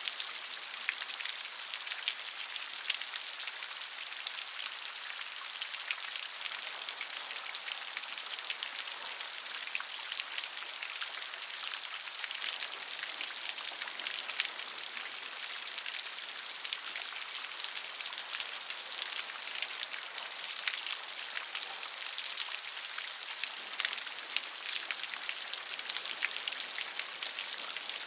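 Steady rain with many close individual drop ticks, a dense crackling patter that stays even throughout.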